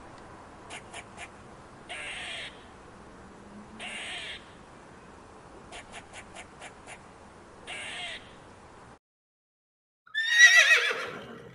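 Harsh caw-like bird calls repeat about every two seconds, with quick runs of clicks between them. After a short break a loud whinny-like animal call falls steeply in pitch near the end.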